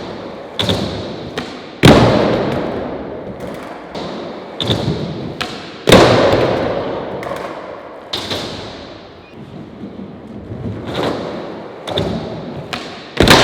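Skateboard slamming and clattering on pavement during trick attempts: sharp board impacts, the loudest about 2, 6 and 13 seconds in, each followed by wheel-rolling noise that fades, with smaller clacks between.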